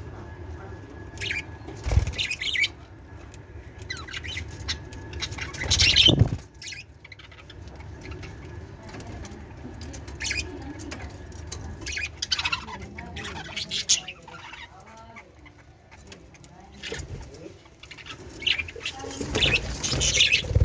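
Pet budgerigars chirping and fluttering, in short high chirps scattered throughout. Two loud thumps land about two and six seconds in.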